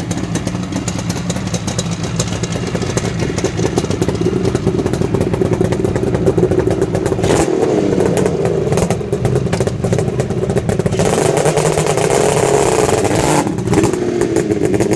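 Kawasaki 750 motorcycle engine running and being revved, getting louder from about four seconds in, with surges in engine speed as the bike pulls away.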